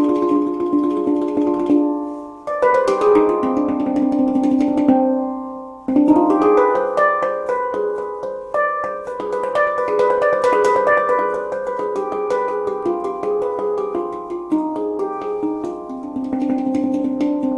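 Meraki handpan played by hand in a C harmonic minor (Hijaz-like) scale over a G ding, struck notes ringing and overlapping. A phrase dies away about two and a half seconds in and again near six seconds, then a faster run of taps follows.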